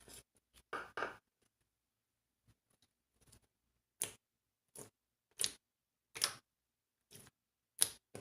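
Clear slime being pressed and squeezed by hand, giving short sticky pops and clicks: a pair about a second in, then about one a second from the middle on.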